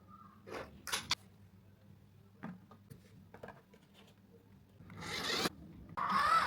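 A small RC pickup truck driving in short spurts, giving three brief bursts of scraping noise. The last and loudest burst carries a short whine that rises and falls.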